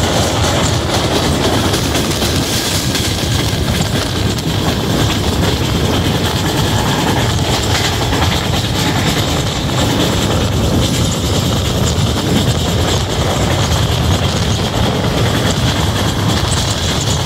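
Passenger train running at speed, heard from an open coach doorway: the steady running noise of the wheels on the rails.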